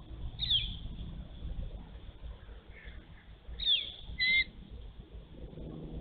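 A bird calls three times in short, high notes that drop in pitch. The first comes about half a second in, and two more follow close together near four seconds, the last a brief double note. A low background rumble runs underneath.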